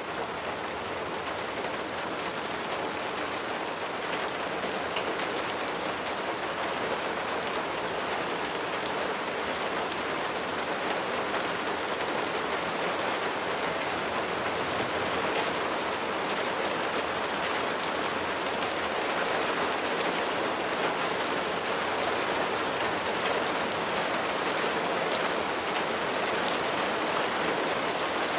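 Steady rain falling on a surface, with individual drops ticking through the hiss; it grows gradually louder.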